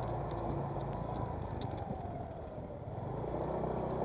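Low, steady engine hum, as of a distant motor vehicle, with a faint tone sinking slowly in pitch during the first two seconds.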